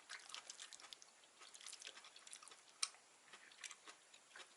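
A person chewing chewy gopchang (grilled beef or pork intestines) close to the microphone: faint, wet, irregular smacking clicks, with one sharper click nearly three seconds in.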